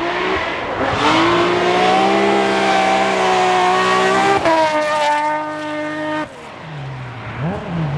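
BMW-engined rally car at full throttle: the engine climbs and holds high revs, drops with an upshift about four and a half seconds in, then lifts off sharply after six seconds, followed by quick rev blips near the end as it downshifts.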